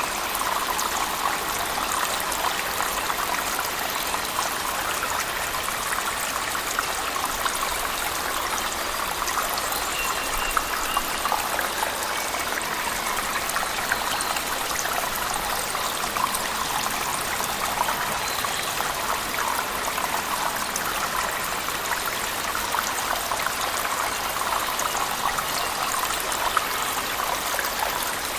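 Water falling and splashing steadily in a cave, a continuous rush with many small drips and splashes through it, mixed with heavy rain.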